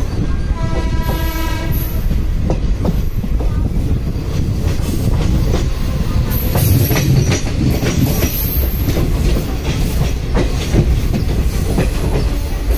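Passenger train running, heard from a coach window: steady rumble with wheels clicking over rail joints and points. A short horn blast sounds about half a second in and lasts about a second and a half.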